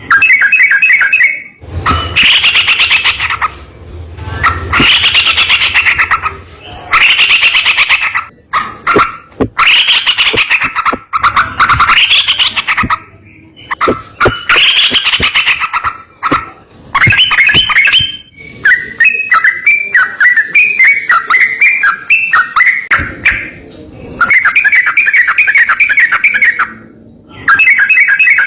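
Yellow-vented bulbul (trucukan) singing loud, fast chattering phrases of a second or two each, with short pauses between them, over and over. Around the middle there is a longer unbroken run of quicker notes.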